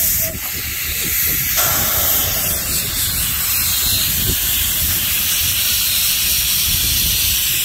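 Narrow-gauge steam locomotive hissing steam steadily, with a louder, fuller hiss for a second or so about one and a half seconds in. Wind buffets the microphone underneath.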